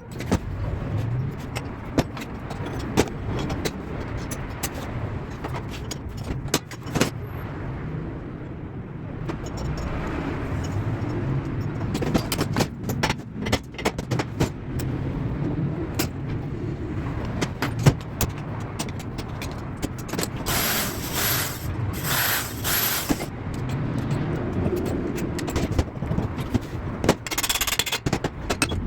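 Sharp clicks and knocks of tools and metal parts being handled while a chainsaw is worked on, over a steady low rumble. Several longer hissing bursts come about two-thirds of the way in and again near the end.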